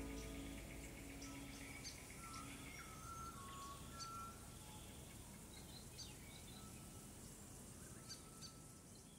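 Faint bird chirps and a few short whistled notes over a quiet outdoor background, with soft music fading out in the first couple of seconds.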